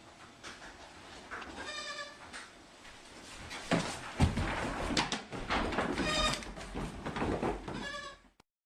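Goat kids bleating: three short, high bleats. From about four seconds in they are mixed with loud knocks and scuffling.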